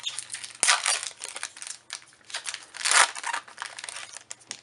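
Foil Magic: The Gathering booster pack wrapper crinkling as it is handled and opened, with two louder crackling bursts, the first about a second in and the second near the three-second mark.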